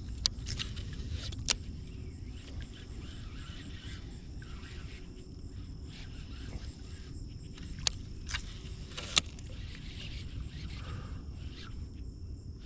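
Outdoor ambience with a steady high insect drone and a low rumble underneath. A few sharp clicks and two short bursts of rustling come through, near the start and about eight seconds in.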